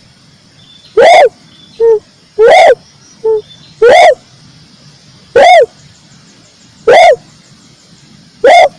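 Red turtle dove (tekukur merah) calling: a short coo that rises and falls in pitch, repeated about every one and a half seconds, with a shorter, softer note between some calls. The recording is loud and clipped.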